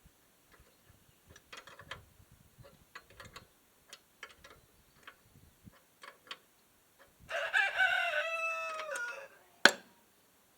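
A rooster crows once, one call of about two seconds that drops in pitch at the end. Scattered light clicks and taps come before it, and a single sharp click follows.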